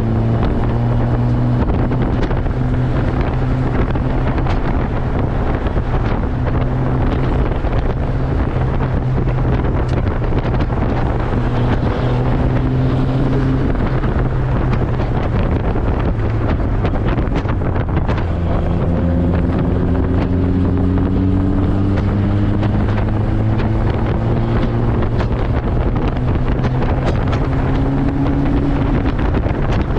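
1999 Mazda Miata's turbocharged 1.8-litre four-cylinder engine running hard at track speed, heard from the open cockpit under heavy wind buffeting on the microphone. Its pitch climbs steadily twice in the second half as the car accelerates.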